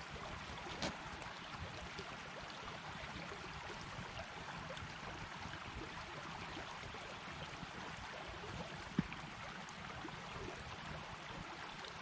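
Creek water running steadily, with a couple of short knocks, the sharpest about nine seconds in.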